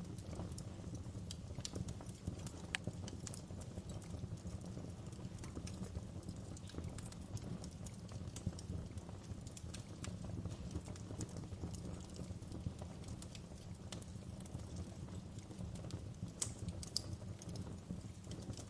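Wood fire burning in a fireplace: a steady low rumble of flames with scattered crackles throughout and a few sharper pops near the end.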